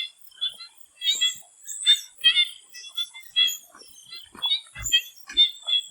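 Swamp frogs calling in a chorus: short croaking calls, several a second at irregular spacing, over a steady high-pitched drone of insects.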